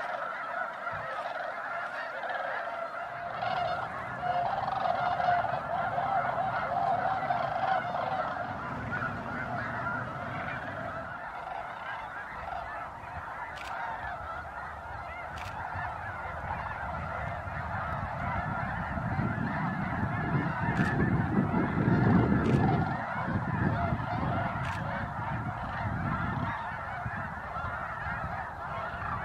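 A large flock of snow geese calling, a dense unbroken chorus of honks. A low rushing noise swells under it twice, a few seconds in and again past the middle.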